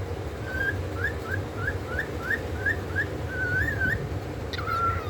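Pet parrot whistling: a quick run of about nine short rising whistles, then a warbling phrase, and near the end a longer whistle that drops and holds.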